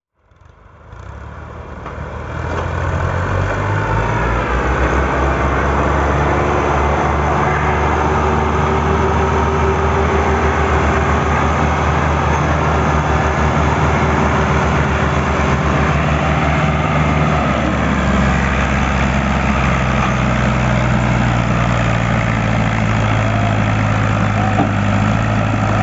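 Tractor engine running steadily, fading in over the first two seconds or so; its low tone shifts slightly about eighteen seconds in.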